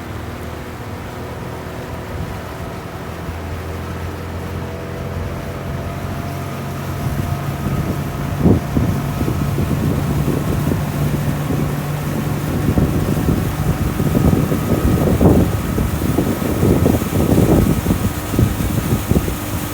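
A motor engine running steadily, its pitch drifting slowly upward. From about seven seconds in, gusts of wind buffet the microphone and grow stronger.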